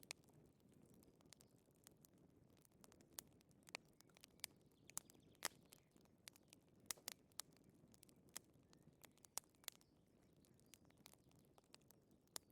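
Faint crackling of a wood fire: irregular sharp pops and snaps a few times a second over a low, soft rumble.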